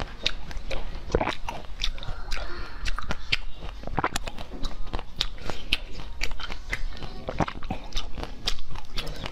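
Close-miked chewing and biting of orange jelly candies, with many sharp, irregular crunches and wet clicks.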